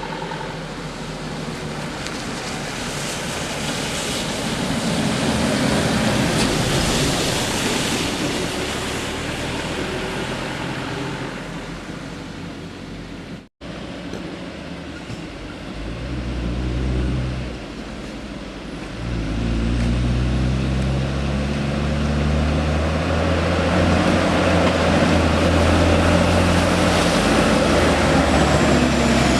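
Heavy road vehicles passing close by. First a vehicle's noise swells and fades, then the sound breaks off abruptly. After that a big engine runs loud and close, its pitch stepping up and down.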